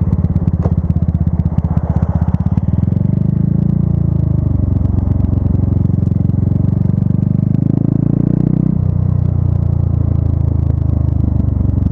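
Motorcycle engine running under way, heard from the rider's position; its pitch climbs from about three seconds in and drops abruptly about nine seconds in.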